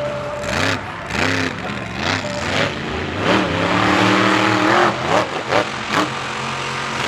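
Monster truck engines revving hard, the pitch climbing and falling several times, with quick sharp throttle blips near the end over a steady running engine note.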